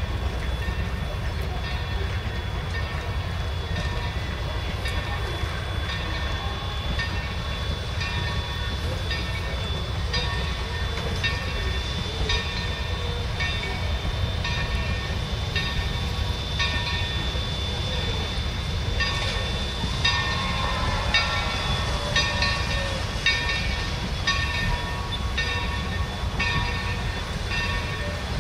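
Passenger coaches rolling past, a steady low rumble with the wheels clicking over rail joints, the clicks coming a little faster in the second half as the train gathers speed. A steady high-pitched squeal runs under it.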